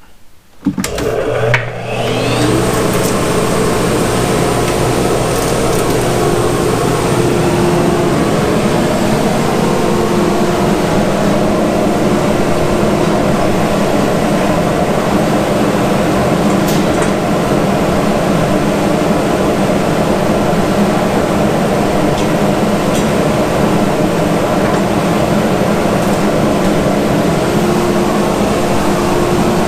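Shop exhaust fan switched on: its motor spins up with a rising whine over the first couple of seconds, then runs at a steady, loud drone.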